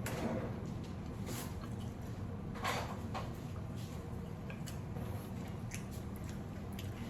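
Eating raw marinated crab with rice: soft wet squishing and chewing with scattered small clicks, one louder rustle about two and a half seconds in, over a steady low hum.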